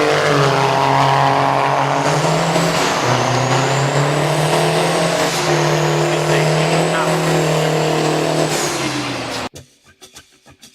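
Car engine running hard at a drag strip, its pitch shifting a few times under load, then cutting off abruptly about nine and a half seconds in.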